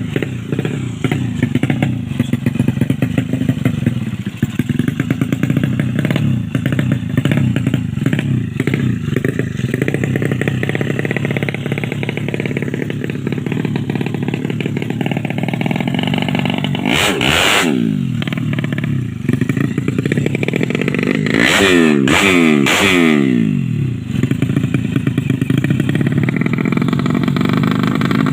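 130cc drag-bike engine idling with a fast clatter, revved once just past the middle and then blipped two or three more times a few seconds later, the revs dropping back to idle each time, as it is being set up.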